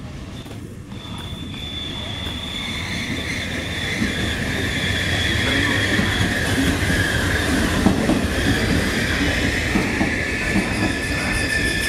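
Trenitalia regional passenger train running into the station, its wheels squealing on the rails in high steady tones over the rumble and clack of the wheels. It grows louder over the first four seconds or so as it comes close.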